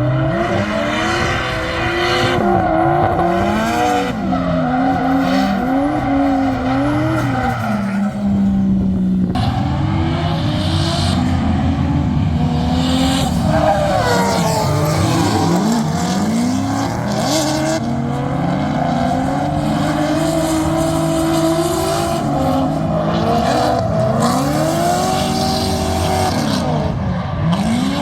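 Drift car engine revving up and down over and over at high rpm, with tyre squeal throughout.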